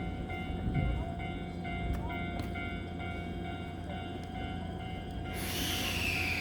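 Electric train at a station platform: a steady low hum with several high steady tones that break up in a regular pattern, and a few faint clicks. About five seconds in, a loud hiss with a falling whine begins.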